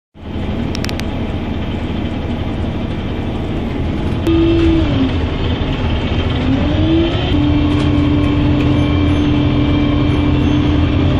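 A motor vehicle engine running, with a low rumble. Its note dips and rises again about halfway through, then holds steady.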